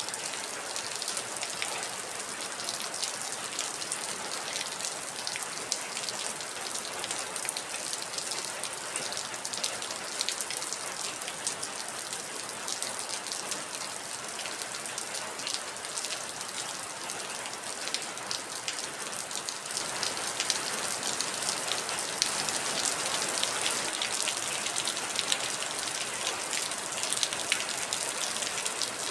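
Heavy rain falling steadily, a dense hiss of countless drops with individual drop taps standing out, becoming somewhat louder about twenty seconds in.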